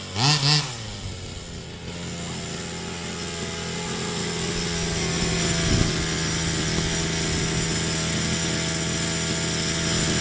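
Rovan 45cc two-stroke engine on a 1/5-scale RC car, revved in two quick blips and then held at high revs, running steadily for several seconds before the revs drop off sharply at the very end.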